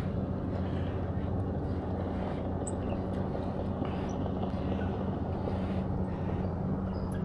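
Motorboat engine running steadily, a low, even drone.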